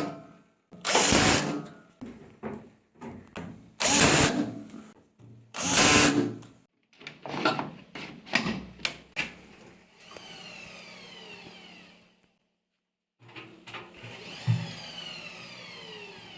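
A power tool, such as a cordless drill or screwdriver, run in several short loud bursts. It is followed by a quieter, steady mechanical whirr with falling tones, heard twice with a short break between.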